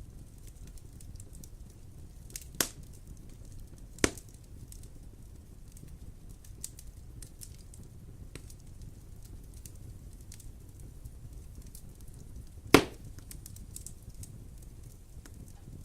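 Wood fire crackling in a fireplace: a steady low rumble of burning with scattered small ticks and three sharp pops, the loudest near the end.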